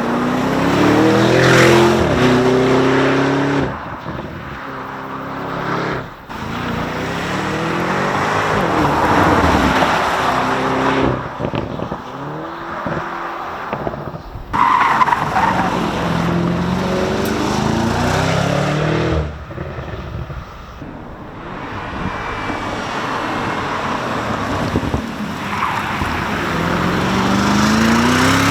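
Sports car engine and exhaust under hard acceleration. The revs climb several times in a row, and each pull breaks off sharply before it starts again.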